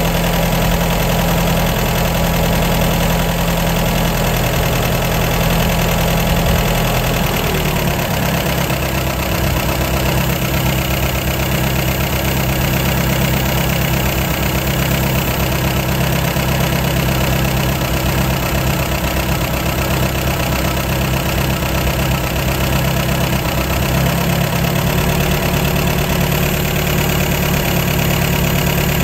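1953 MG TD's four-cylinder engine idling on its twin SU carburettors. The idle speed drops about seven seconds in as the too-high idle is turned down, then picks up slightly near the end.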